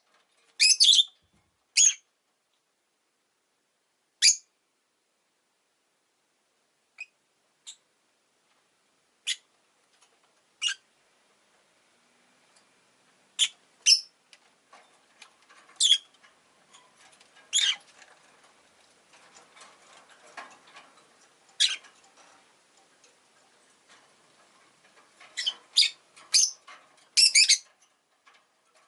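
Rosy-faced lovebird giving short, sharp, high chirps, one at a time and spaced a second or several apart, with a quick run of several calls near the end. A faint background hiss comes up in the second half.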